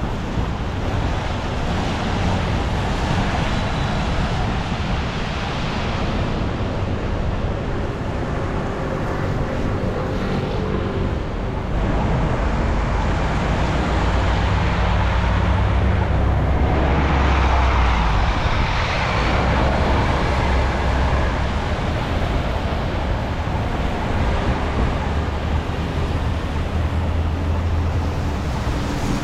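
City street traffic on a rainy avenue: a steady wash of passing vehicles with low engine rumble, swelling louder for several seconds in the middle as heavier vehicles go by.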